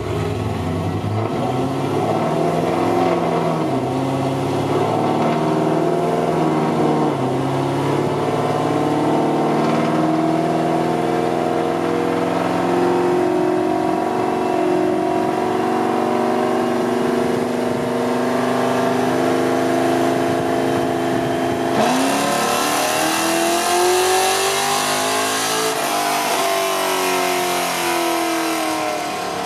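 Pontiac G8 GT's 6.0-litre V8 running hard through the gears of its built 6L80 automatic, its pitch stepping at each shift. About 22 seconds in it goes to full throttle, and the revs climb for about four seconds before falling away, with the loud rush cutting off near the end.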